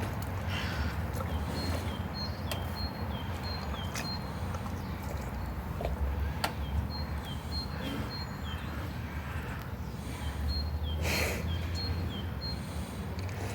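A small bird calling over and over, short high notes, each pair a brief steady note and a quick downward flick, repeated about once or twice a second, over a steady low rumble.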